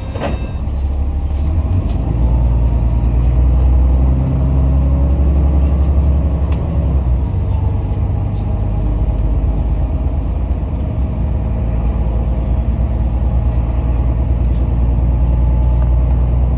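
Yutong ZK6128HG diesel city bus under way, heard from inside: a steady, heavy low engine and road rumble that grows louder about two seconds in, with a faint whine gliding up and down. A short knock right at the start.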